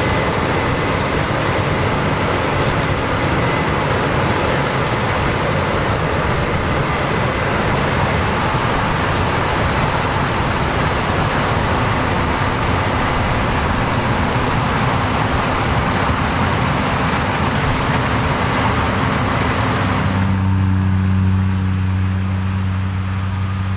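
Combine harvester running in standing corn: a dense, steady mechanical noise of engine and threshing machinery with a faint high whine. About 20 seconds in it changes abruptly to a steadier low engine hum.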